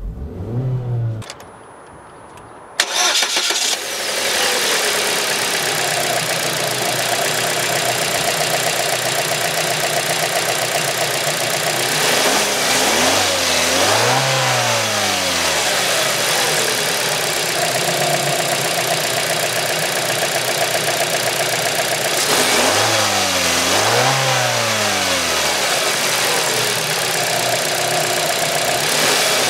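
Opel Mokka's 1.8-litre Ecotec four-cylinder petrol engine starting about three seconds in and settling to a steady idle. It is then revved up and back down twice in quick succession around the middle and twice again near the end. A limiter caps it at 4000 rpm in Park.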